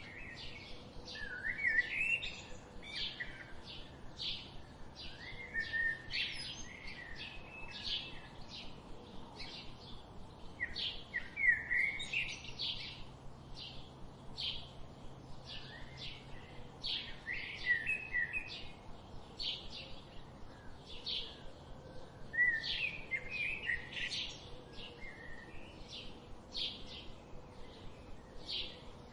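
Birds chirping: a steady run of short, high chirps about two a second, broken every few seconds by brief warbling phrases.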